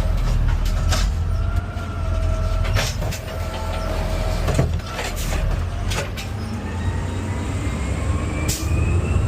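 Garbage truck's diesel engine running under load while its hydraulic arm lifts and dumps a cart, with a whine that slides up and down in pitch and several sharp knocks and bangs of the cart and its contents.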